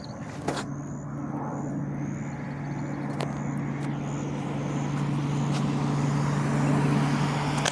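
Steady engine drone with a low, even hum, growing gradually louder.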